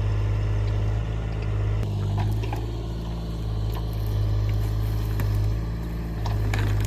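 Excavator's diesel engine running steadily with a deep hum that eases slightly in the middle, with a few light clicks and knocks over it.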